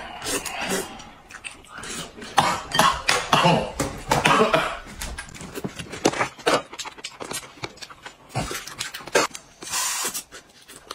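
Eating noises at a table: chewing and slurping, with many sharp clicks of chopsticks and utensils against bowls.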